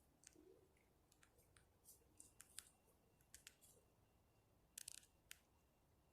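Near silence broken by faint, irregular clicks and ticks, about a dozen, with a small cluster of louder ones about five seconds in.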